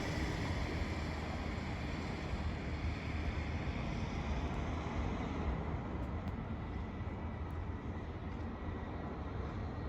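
Airbus A330 jet engine noise fading away as the aircraft draws off, leaving a steady low rumble with a faint high whine.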